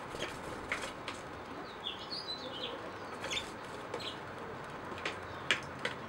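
A small bird gives a quick run of high chirps about two seconds in, over a steady background hiss, with a few sharp clicks scattered through.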